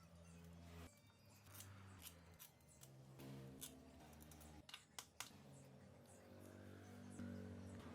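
Faint sharp clicks and light taps, the two loudest close together about five seconds in, over faint soft tones.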